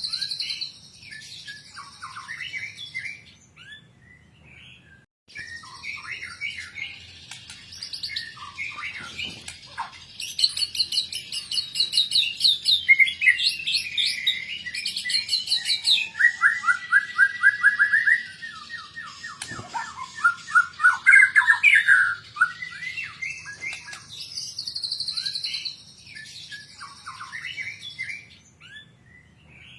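White-rumped shama (murai batu) singing a long, varied song of fast trills, whistles and chattering phrases. The song is loudest and densest in the middle stretch.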